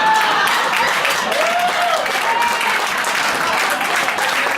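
Audience applauding and cheering, with a few whoops over the clapping.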